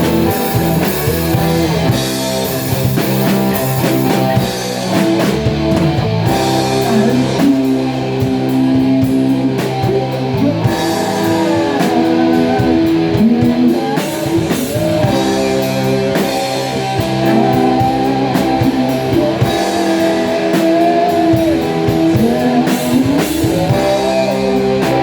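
Rock band playing an instrumental passage: guitars holding chords over a drum kit, with a melody line that bends and glides in pitch.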